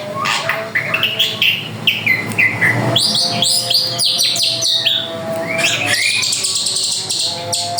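A drongo singing energetically: a rapid, varied stream of chirps, sharp whistles and down-slurred notes.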